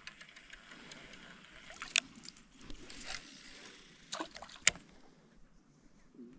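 Small boat on the water, faint water sloshing and gurgling with light clicks and knocks, and two sharp knocks, about two seconds in and a little before five seconds in.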